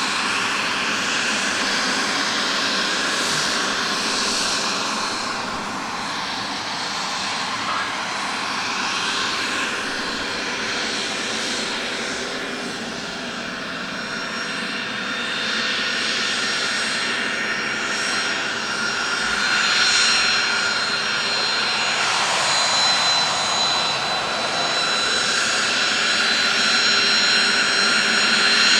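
Twin turbofan engines of a Cessna Citation CJ2 running at taxi power: a steady jet whine with a high thin tone over a rushing noise, swelling slightly about two-thirds of the way through and again near the end.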